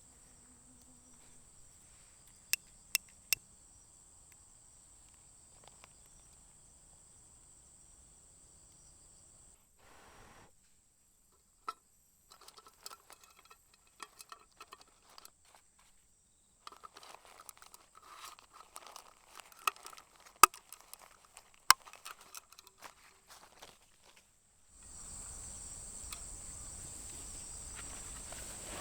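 A steady, high-pitched chorus of insects, broken by handling noises: three sharp clicks about two and a half seconds in, then a stretch of scattered clicks and rustling in which the insects drop away, and the chorus returns near the end.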